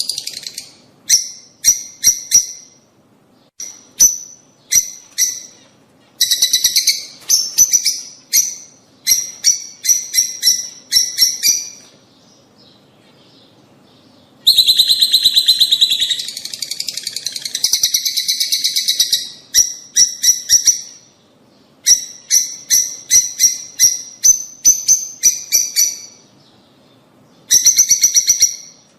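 Lovebirds calling: shrill chirps in quick runs, with a dense stretch of continuous chattering about halfway through and two brief pauses.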